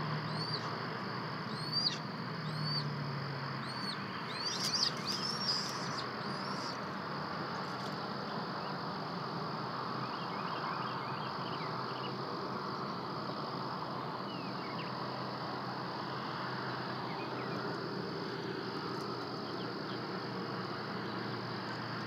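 A bird calling a series of short, high, arching chirps, about one a second, loudest around five seconds in. Fainter quick chirps come around ten seconds in, over a steady outdoor background hiss.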